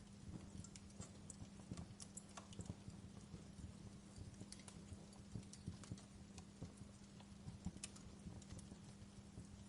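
Wood fire crackling in a fireplace: faint, irregular small pops and snaps over a low steady hum.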